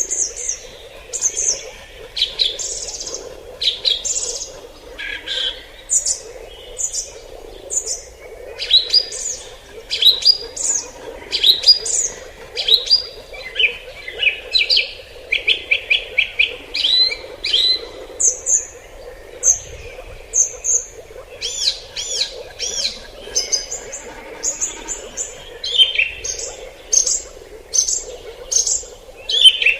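Forest birds chirping and singing, many short calls and quick trills overlapping, over a steady low background hum.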